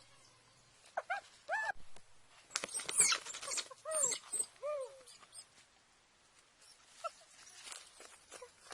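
An animal's short arched calls, a few scattered ones, mixed with rustling and clicks.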